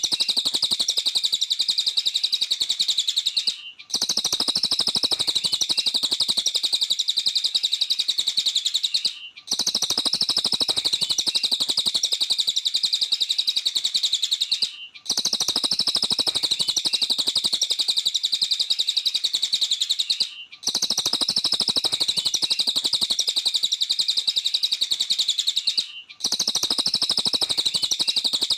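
A cililin bird singing a rapid, continuous stream of high chirps. It comes in identical-looking stretches of about five and a half seconds, each cut off by a brief break: the same recording repeated as a loop.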